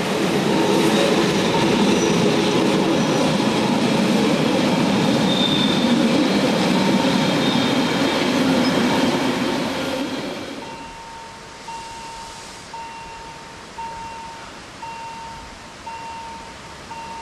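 Berner Oberland Railway narrow-gauge electric train passing close by, wheels rumbling over the rails with a faint high squeal. About ten seconds in the rumble drops away, and a warning bell rings about once a second, typical of a level-crossing signal.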